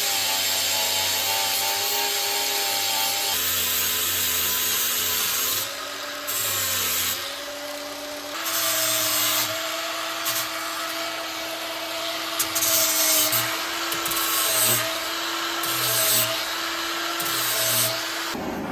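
Angle grinder with a flap disc grinding steel: a steady motor whine with repeated bursts of hiss as the disc is pressed onto the blade and eased off, the pitch dipping slightly under load.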